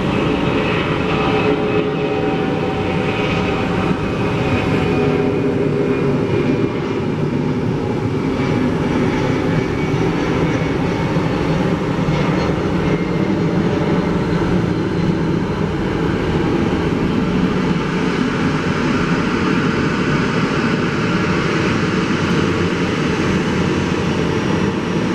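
Jet airliner engines running: a steady, loud rumble with a faint whine on top in the first few seconds.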